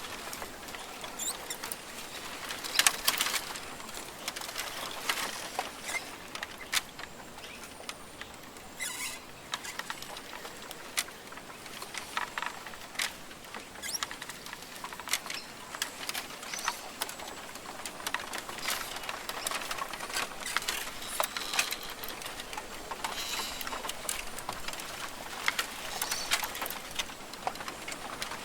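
Rainforest ambience: a steady hiss with many irregular light taps and clicks pattering throughout, a little busier about three seconds in.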